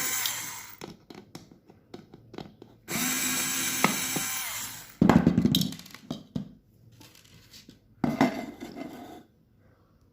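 Tool grinding and scraping against the LED bulb's plastic housing as the bulb is taken apart. It comes in two spells of about two seconds each, with a knock about five seconds in and a shorter scrape near eight seconds.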